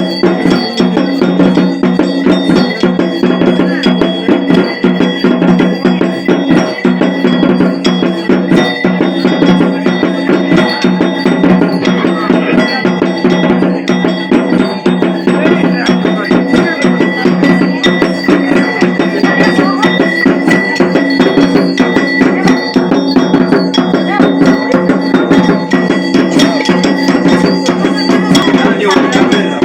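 Fast, unbroken beating of traditional ritual percussion with bells ringing steadily over it: loud devotional music for a goddess puja.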